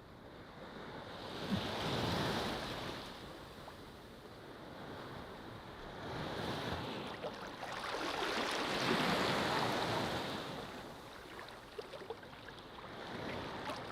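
Ocean surf: waves breaking and washing up a beach, the hiss swelling and fading about four times.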